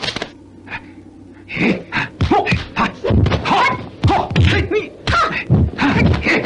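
Kung fu film fight sound: a quick run of dubbed punch and kick whacks mixed with short shouted yells, starting after a brief lull about a second and a half in.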